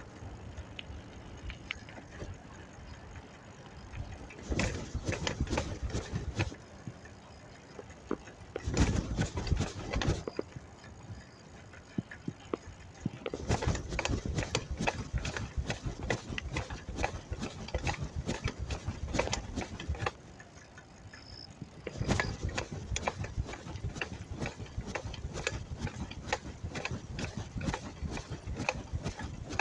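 Bicycle clattering and rattling as it is ridden, dense rapid knocks that come in loud stretches with quieter gaps between.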